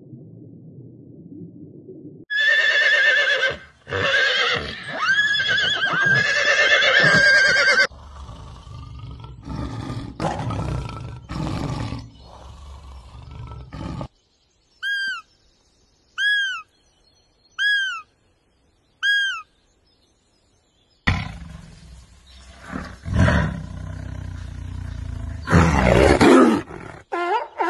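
A run of different animal calls one after another, including a roar. Midway come four short chirps, each rising and falling in pitch, about a second and a half apart.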